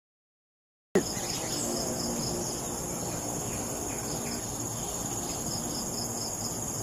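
Insects shrilling steadily at a high pitch, with runs of short evenly spaced chirps over it. The sound starts abruptly about a second in, after silence.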